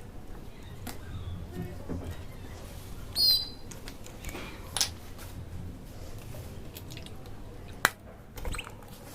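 A bird chirping: a short, high call about three seconds in and a fainter one near five seconds, over a steady low background, with a sharp click just before the eight-second mark.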